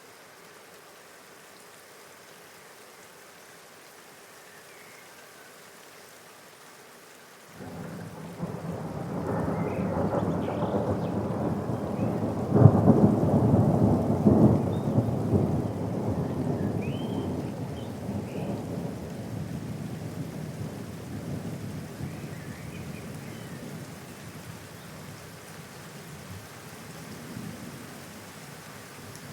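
Steady rain, then, about a quarter of the way in, a long roll of thunder starts suddenly. It is loudest a few seconds later and slowly dies away under the rain.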